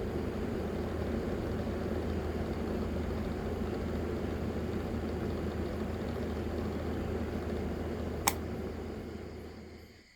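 Small battery-powered motor fan in a homemade cardboard air-conditioner model running steadily with a low hum. A sharp click comes near the end, then the fan winds down and stops.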